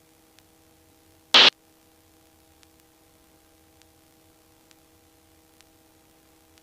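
A helicopter headset intercom line sitting almost quiet, with a faint steady hum of a few low tones. About a second and a half in, one brief, loud burst of static-like hiss breaks through.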